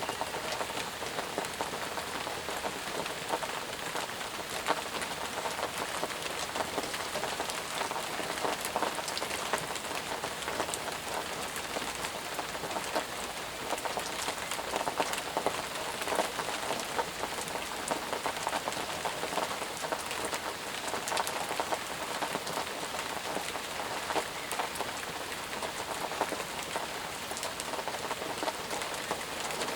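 Steady heavy rain falling on surfaces, a constant hiss with many individual drop impacts pattering through it.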